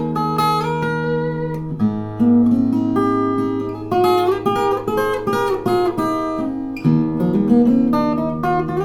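Stafford SLG-360E acoustic-electric guitar played: chords with plucked melody notes ringing over held bass notes, changing chord about two seconds in and again about seven seconds in.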